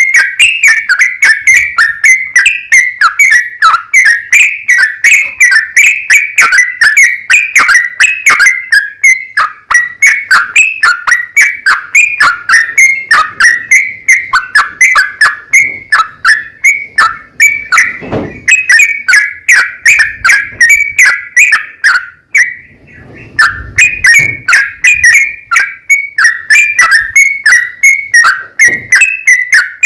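Yellow-vented bulbul (trucukan) singing a long, rapid run of loud whistled, chattering notes, several a second. The run breaks off briefly about 23 seconds in and then resumes.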